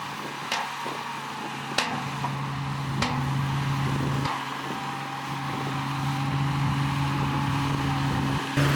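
Heavy diesel earthmoving machine's engine running steadily, with four sharp metallic knocks in the first half. The engine sound changes abruptly just before the end.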